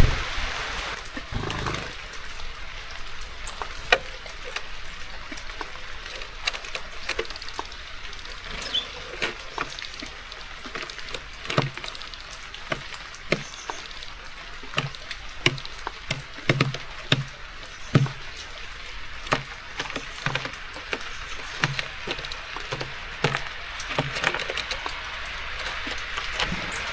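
Steady rain with many irregular sharp taps and soft knocks at a garden bird feeder, a few each second.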